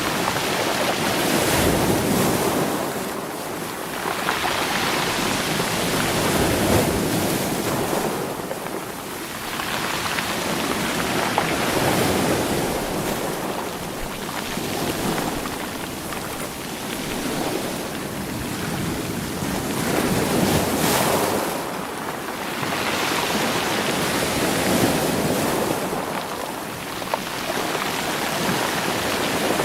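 Sea waves washing over a rocky, stony shore, swelling and easing every few seconds as each wave breaks and drains back, with stones rolling and knocking in the surf.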